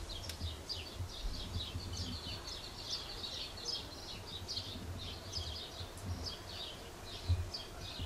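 Small birds chirping and singing continuously, many quick high chirps, over a faint low rumble.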